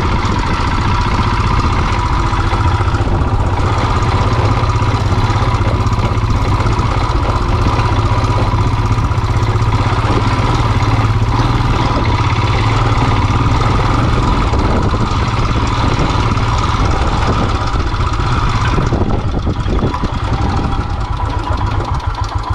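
A Royal Enfield single-cylinder motorcycle engine idling steadily, with an even pulsing beat. Its level wavers near the end.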